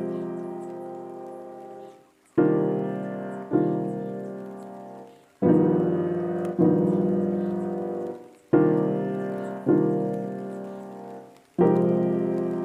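Background piano music: slow chords struck about every three seconds, each followed by a second chord about a second later, ringing and fading away.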